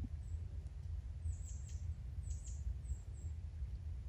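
Small songbird chirping: several short, high, falling chirps in small clusters from about a second in, over a steady low rumble.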